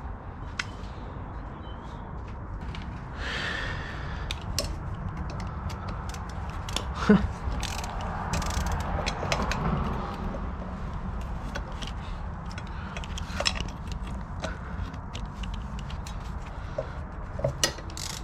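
Hand tools working on car parts: scattered metal clicks, taps and knocks, with a steady low hum underneath.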